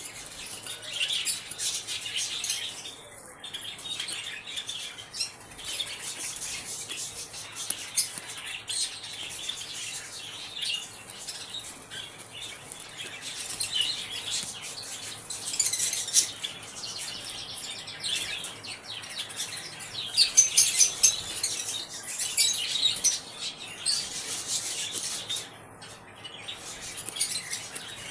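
Small pet parrots chirping and chattering continuously, with many scratchy high clicks; the calls are loudest about two-thirds of the way through.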